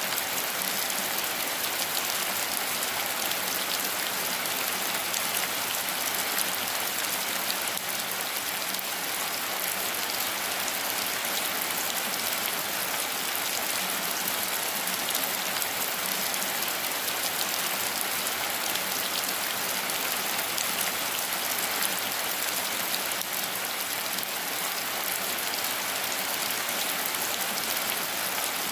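Rain falling steadily: a dense, even hiss of many drops that neither builds nor fades.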